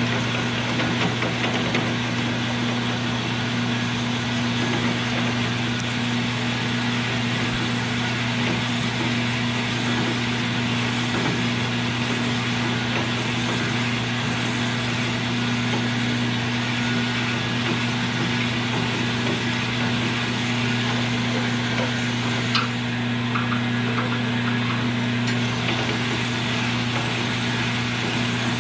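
Electric motor of a hone running steadily, sizing a newly fitted connecting-rod bushing, with an even hum and grinding hiss. A single sharp click comes about three-quarters of the way through.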